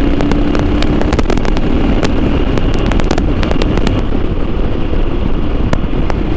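Motorcycle engine running under way while riding, with wind buffeting and crackling on the microphone.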